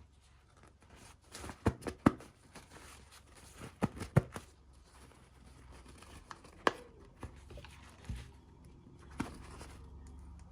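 Packaging being handled and torn open by hand: scattered crinkling and sharp clicks in short clusters, the loudest about two seconds in.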